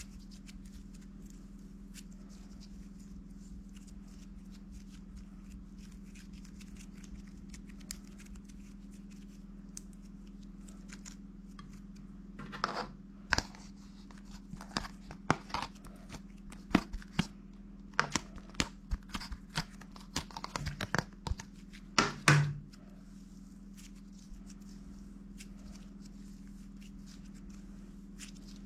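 A steady low hum, with a spell of irregular sharp clicks, taps and short rustles in the middle, like small objects being handled.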